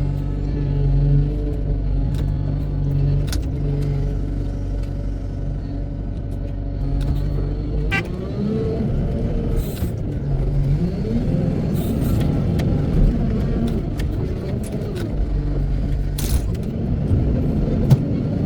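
Wheel loader's diesel engine running steadily, then from about eight seconds in revving up and down repeatedly as it works, with a few short clunks.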